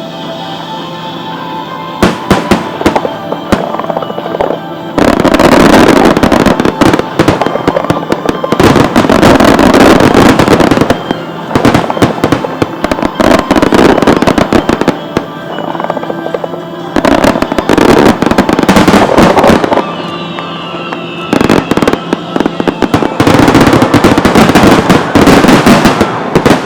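Aerial fireworks bursting in rapid volleys: dense runs of bangs and crackle come in several waves, each lasting a few seconds with short lulls between.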